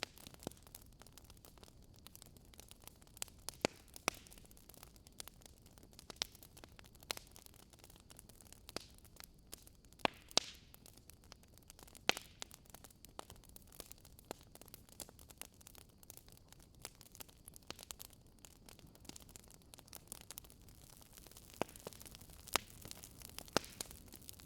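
Wood fire crackling: faint steady hiss with irregular sharp pops and snaps, a few louder ones now and then.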